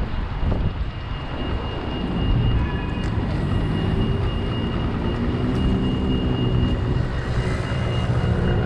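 City street traffic: a motor vehicle's engine passing with a gently shifting pitch from about two seconds in, over a heavy low rumble of traffic and wind on the microphone.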